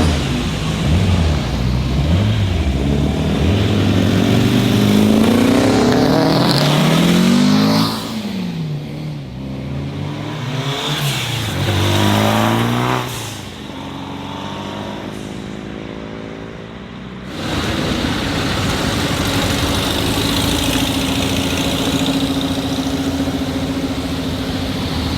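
Car engines revving, their pitch climbing and falling sharply several times, then easing off. A steadier engine drone holding one note takes over about seventeen seconds in.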